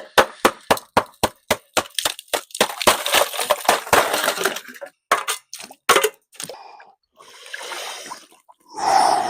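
Ice in an ice bath cracking and clinking in a quick run of sharp knocks, about three or four a second, then water sloshing and splashing near the end.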